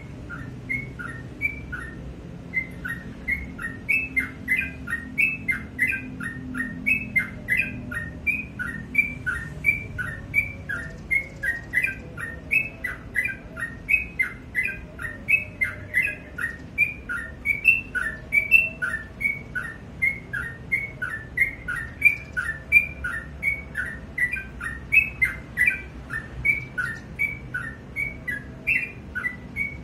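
Sooty-headed bulbul (trucukan) singing on and on: a steady string of short whistled notes that jump up and down in pitch, about two or three a second.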